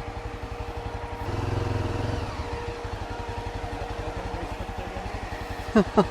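Yezdi Adventure single-cylinder motorcycle engine idling with an even low beat, rising briefly in revs about a second and a half in. Near the end there are two short, sharp falling chirps.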